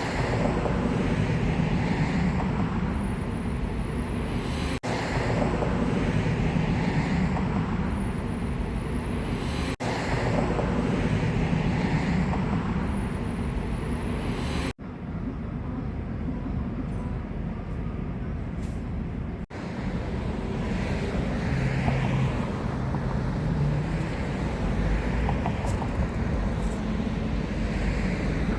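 Steady rumble of vehicles and road traffic, with brief dropouts about every five seconds and one quieter stretch in the middle.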